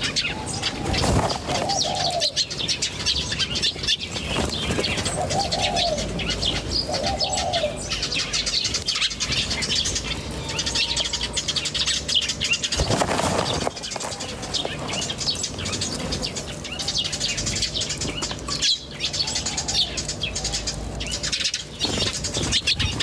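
Many small birds chirping and twittering together without pause, with a low cooing call heard about four times in the first third. A brief loud rush of noise comes about halfway through.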